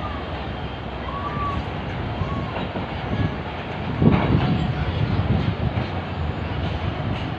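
Pakistan Railways passenger coaches rolling past a station platform as the train departs: a steady rumble of wheels running over the rails, with a louder knock about four seconds in.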